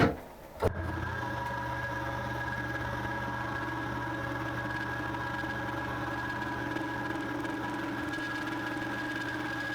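A small milling machine's spindle motor switches on just under a second in and runs steadily at about 1,000 RPM with a constant whine, spinning an edge finder; a couple of short knocks come just before it starts.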